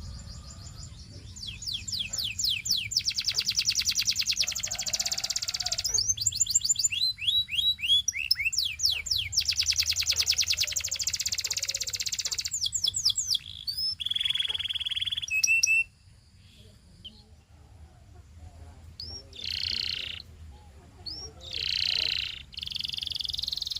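Domestic canary singing: long runs of very fast rolling trills, with downward-sweeping notes between them and a held whistle about two-thirds of the way through. After that the song turns softer, in short phrases.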